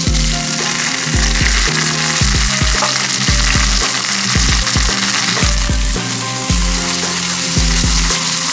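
Chopped green bell peppers frying in very hot olive oil with elephant garlic, a loud, steady sizzle.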